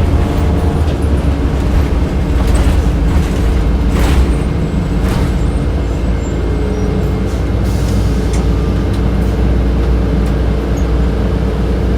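Inside a 2007 Orion VII transit bus under way: the steady low drone of the running bus and its HVAC system, with a few rattles and clicks from the cabin between about two and five seconds in.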